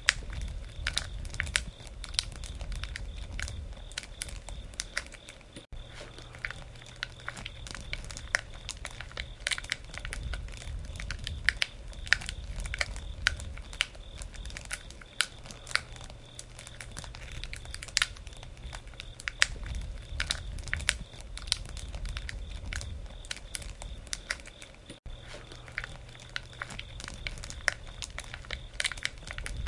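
Campfire burning and crackling: many irregular sharp snaps and pops over a low rumble of flames.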